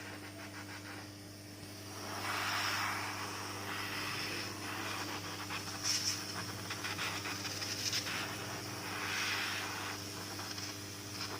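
A steady low electrical hum, with an irregular hissing, crackling noise over it that grows louder about two seconds in.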